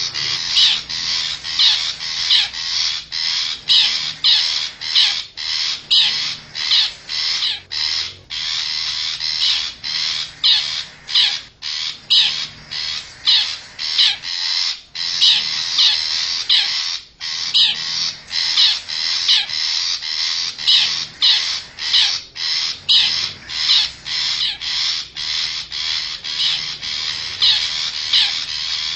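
Long-tailed shrike (cendet) calls repeated in a rapid, unbroken series of short notes, about two a second, played as a bird-trapping lure call.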